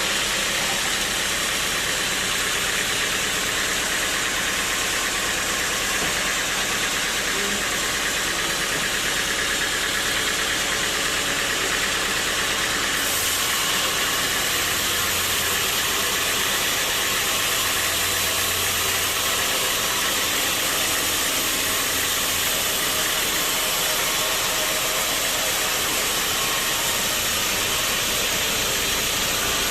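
Sawmill machinery running with a steady, dense noise, heavy in the upper range, that holds level throughout.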